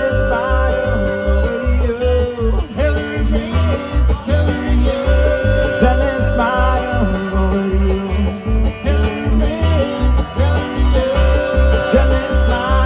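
Live bluegrass band playing an instrumental passage: picked banjo and guitar over a steady bass pulse, with long held melody notes above.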